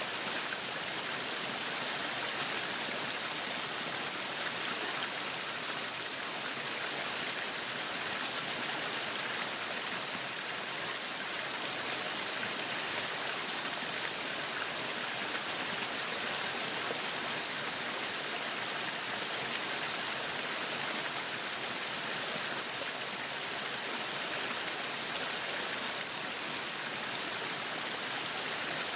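Meat sizzling on a yakiniku grill: a steady, even hiss of fat frying.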